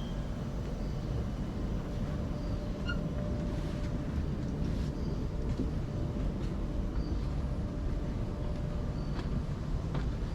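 Outdoor ambience: a steady low rumble with short, high chirps every second or two.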